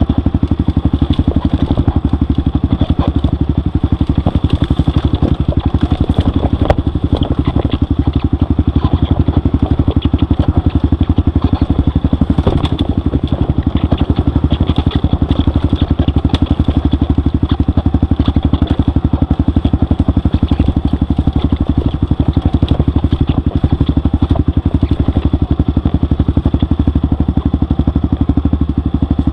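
Off-road motorcycle engine running steadily at a fairly constant speed on a muddy trail, with scattered light clattering and knocks over it.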